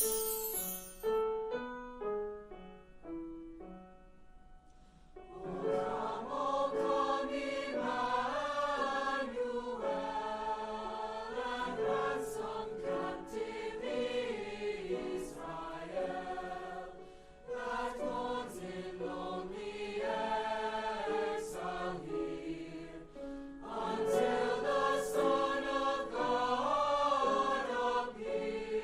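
Choir singing a Christmas piece, led in by a short run of single notes before the voices enter about five seconds in.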